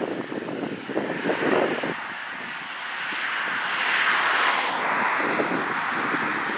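A passing vehicle's noise swells smoothly to a peak about four seconds in and then fades, after gusts of wind on the microphone in the first two seconds.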